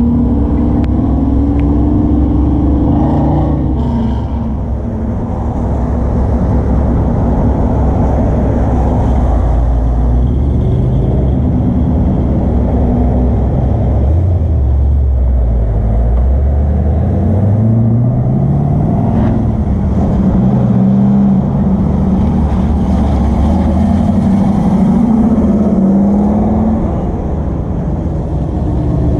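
A three-wheeled motorcycle (trike) engine running while riding. Its note rises and falls repeatedly as it accelerates and changes gear, with a long climb about halfway through.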